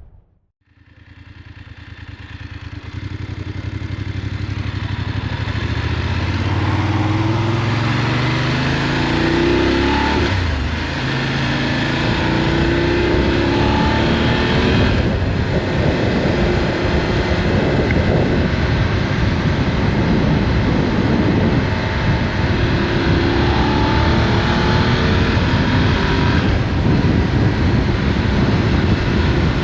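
Motorcycle being ridden, its engine pitch climbing through the gears several times, over a steady rush of wind and road noise.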